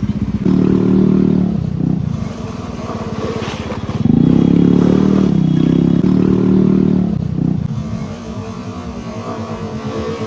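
Motorcycle engine under way, the throttle opened twice, for about a second and a half just after the start and again for about three seconds from the middle, easing off between and near the end.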